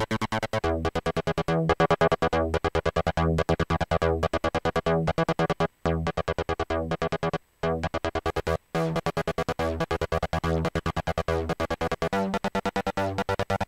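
Trance riff played on synthesizers: fast, evenly chopped notes over a bass line that changes pitch every second or so, breaking off briefly a few times in the middle.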